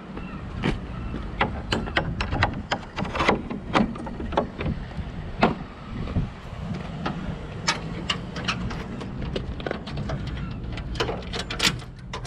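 A vehicle engine idling steadily, with many sharp, irregular knocks and clatters over it.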